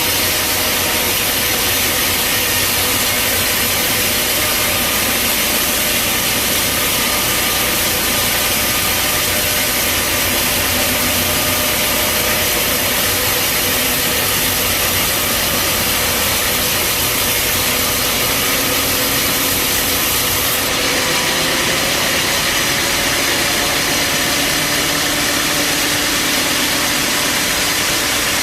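Bandsaw sawmill running: a loud, steady mechanical noise with a faint hum, its sound changing slightly about two-thirds of the way through.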